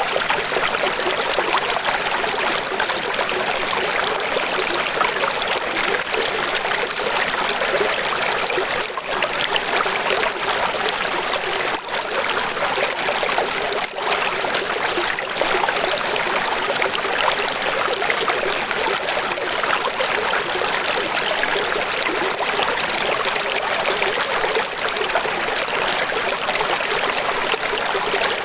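Steady rushing of running water, an even splashing hiss with no deep rumble.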